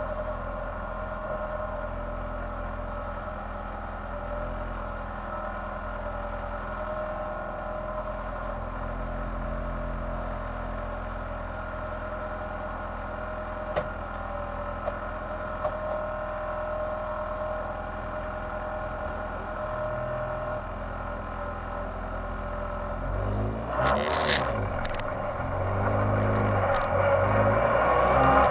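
Race car engine heard from inside its stripped, roll-caged cabin, running steadily at low revs while the car creeps along. About 23 seconds in, the engine picks up as the car accelerates, and it grows louder toward the end.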